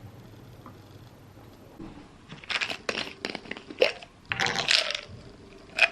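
Poodle crunching a hard dog treat: a run of irregular crunches starting about two seconds in, with more near the end.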